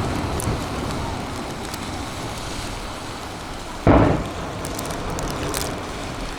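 Fireworks display: a steady low rumble of bursts echoing, then one sharp, loud aerial shell burst about four seconds in, followed by a few faint crackles.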